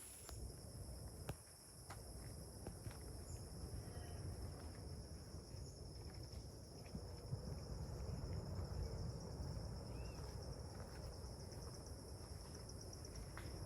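Rainforest insects calling in a steady high-pitched chorus, with scattered faint clicks and low rumbling beneath.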